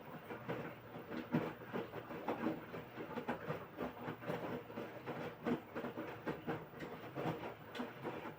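LG washing machine tumbling its load during the wash part of the quick program, with water and laundry sloshing in the drum and many short irregular knocks.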